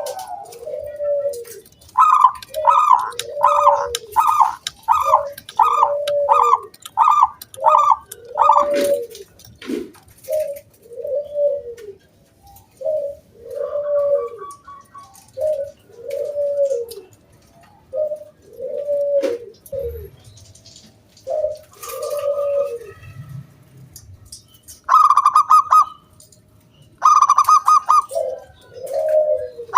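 Zebra dove (perkutut) cooing: low arched coos repeated about once a second. Over them, for the first nine seconds, runs a higher, louder series of notes about two a second, and two short higher bursts come near the end.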